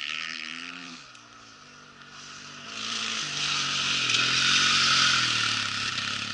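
Rally motorcycle engines passing at speed: one fades away in the first two seconds, then another approaches, loudest about five seconds in, and its pitch drops as it passes.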